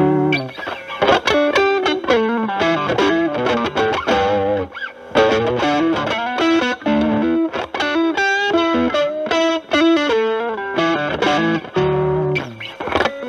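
Overdriven electric guitar: a Stratocaster with single-coil pickups through a ProCo RAT2 distortion stacked with an Ibanez TS9 Tube Screamer (TS9 gain at 10 o'clock) into a Marshall Valvestate amp, playing improvised lead phrases mixed with chords, with some string bends.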